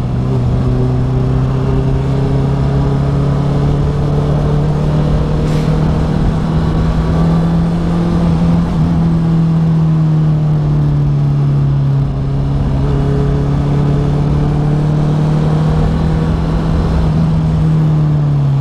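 Honda CB650R inline-four engine and exhaust heard from on the bike while riding, pulling steadily with its pitch slowly rising. There is a short dip about twelve seconds in, the pitch climbs again, and it falls near the end as the bike slows.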